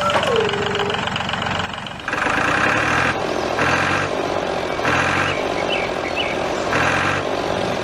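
Engine sound, running steadily with a regular pulse about once a second. A short tone falls in pitch at the very start.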